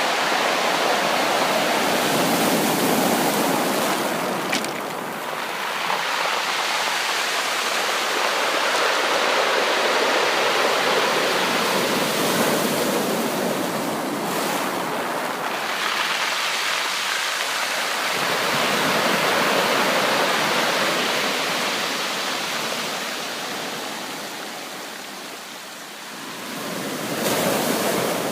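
Sea waves breaking and washing ashore: a steady rushing surf that swells and ebbs every several seconds.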